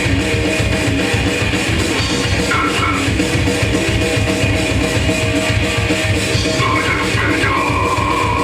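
Hardcore punk band playing live: electric guitars and drum kit in a loud, fast, steady stream.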